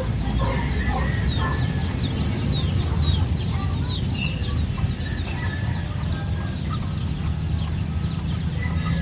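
Many birds chirping: dense, short, falling chirps keep repeating over a steady low rumble.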